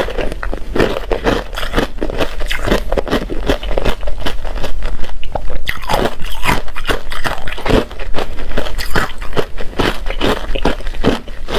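Ice being bitten and chewed close to the microphone: a rapid, unbroken run of loud crunches, several a second.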